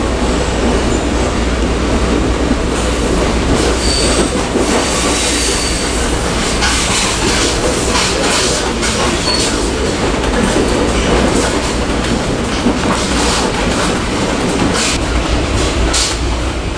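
Train running on rails: a steady rumble with scattered clicks of the wheels over rail joints and a few brief high wheel squeals about four to five seconds in.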